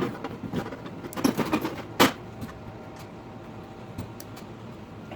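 A quick run of clattering knocks and clicks, as of grill parts and tools being handled, ending in one sharp knock about two seconds in; the audio is sped up, so the knocks come fast and close together. After that only a steady, low background noise remains.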